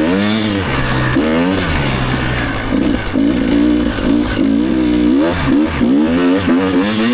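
Enduro motorcycle engine revved hard and repeatedly, its pitch climbing and dropping over and over. It is being screamed in a low gear, typical of a bike held in first in snow instead of shifted up to second.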